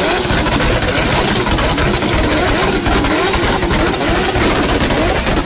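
Loud modified car exhaust with the engine running rough and steady, its note wavering up and down about twice a second.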